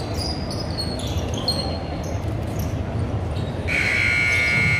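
Basketball game in a gym: steady hall rumble with short, high sneaker squeaks on the court. Near the end a strong, held high-pitched signal tone sounds for about a second and a half.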